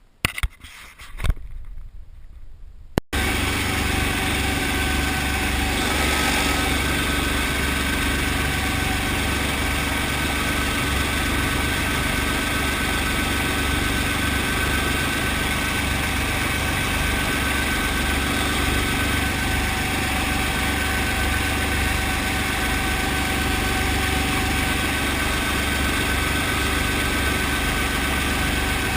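A few knocks, then the Brantly B2B helicopter's four-cylinder Lycoming piston engine comes in suddenly about three seconds in and runs steadily at idle, a constant drone with a low pulsing throb.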